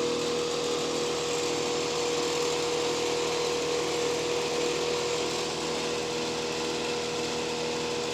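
A motor-driven machine running steadily, a constant hum with one strong unchanging tone over an even rushing noise.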